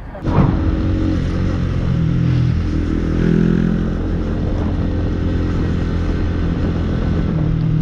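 Honda CB125R motorcycle's single-cylinder 125 cc engine running steadily under way. It starts abruptly just after the beginning.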